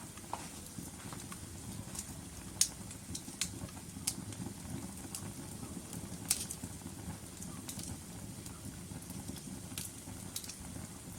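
Wood fire burning in a fireplace, with a steady low rush and irregular sharp crackles and pops from the burning logs. The loudest pop comes about two and a half seconds in.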